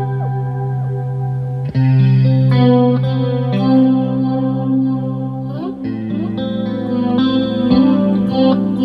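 Electric guitar (a Squier Classic Vibe '60s Stratocaster) played through effects with chorus over a looped part. Sustained, layered chords with sliding notes, changing chord about two seconds in and again about six seconds in.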